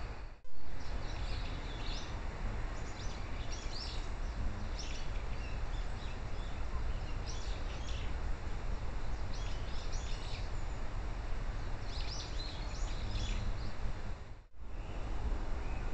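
Short bird chirps come every second or two over the trail camera's steady hiss and low rumble. A brief loud click comes just after the start.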